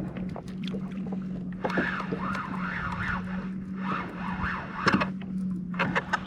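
Fishing reel being cranked to bring up a fish, a whirring that rises and falls with each turn of the handle, in two runs. There are a few sharp clicks near the end, and a steady low hum throughout.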